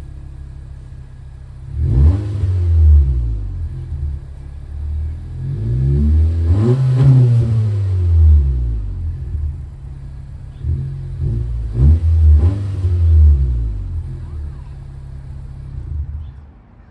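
Honda Civic EX's 1.5-litre turbocharged four-cylinder with its mufflers cut off and the resonator left on, idling and then revved: a short rev about two seconds in, a longer rev that climbs and falls back in the middle, then a few quick blips before it drops back to idle.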